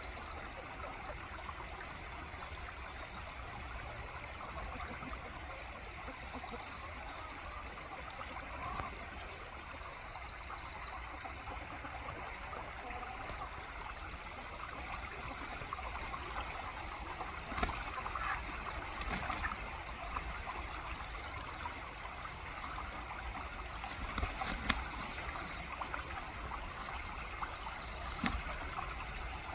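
Steady rush of running water, with a small bird's short high trill repeating every few seconds and a few light sharp knocks.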